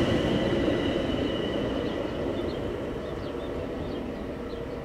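A train running past and moving away, its rumble fading steadily, with a high whine from the train dying out early on.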